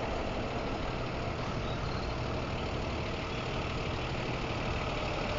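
A 26-foot box truck's engine running with a steady low hum.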